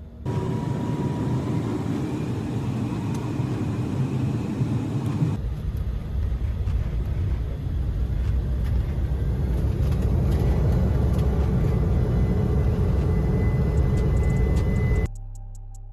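Jet airliner heard from inside the cabin: a loud, steady rumble of the engines and airframe, with a faint whine that rises slightly in pitch over the last few seconds. The sound changes abruptly about five seconds in and cuts off suddenly near the end.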